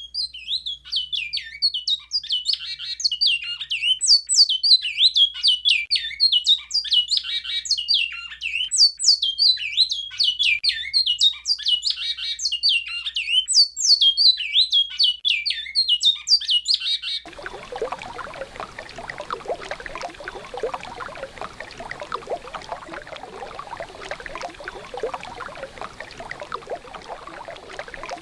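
A bicudo (great-billed seed finch) sings an Alta Mogiana-style song, a rapid run of clear whistled notes that each slide downward. About two-thirds of the way through, the song cuts off suddenly and is replaced by the steady rush of river water.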